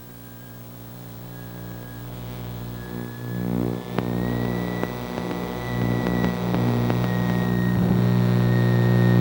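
Twin-engine piston airplane's engines running up as the throttles are advanced to 1500 RPM for the pre-takeoff run-up, a steady drone that grows louder.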